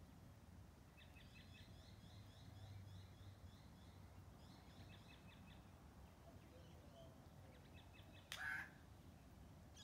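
Faint bird chattering: quick runs of short repeated high notes, one lasting several seconds and a shorter one later. A single sharp knock near the end is the loudest sound.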